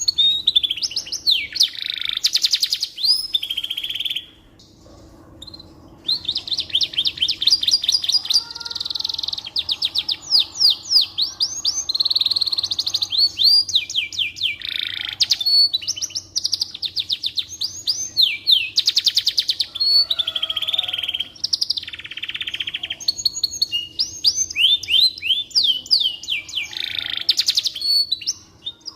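Domestic canary singing a long song of fast trills and rapid rising and falling notes, with a short pause about four seconds in before it starts again, over a faint steady hum.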